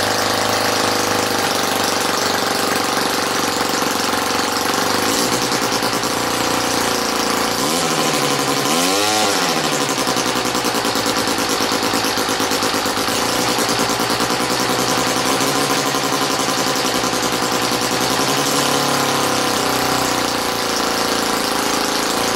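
OS Wankel .30 glow rotary model aero engine running loud and steady at speed, its pitch rising and falling once about nine seconds in as it is revved up and back.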